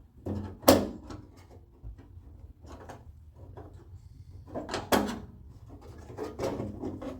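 Metal clicks and knocks of a car door lock and its linkage rods being fitted into the door, with a sharp clunk about a second in and another near the middle.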